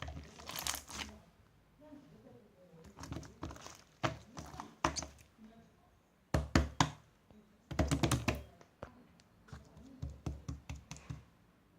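Irregular clusters of sharp knocks and taps, with the loudest groups a little past the middle.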